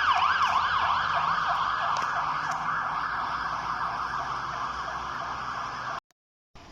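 Fire engine's electronic siren in fast yelp mode, rising and falling about three times a second, fading steadily as the truck drives away, over a low engine rumble; the sound cuts off abruptly about six seconds in.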